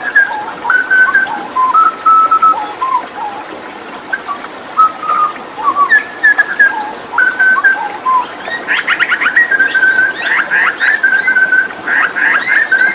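Hooded butcherbird singing a series of short whistled notes that step up and down in pitch. About two-thirds of the way through, the song turns into quick rising notes over a held whistle.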